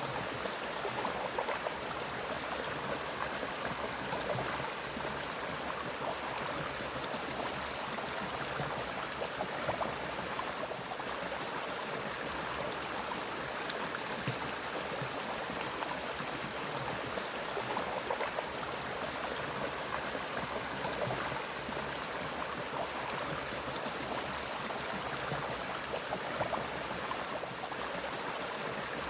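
Forest stream flowing: a steady, even rush of running water, with a steady high-pitched tone above it.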